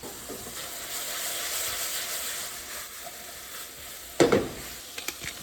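Food sizzling steadily in a hot pan, with one short, sharp clack about four seconds in.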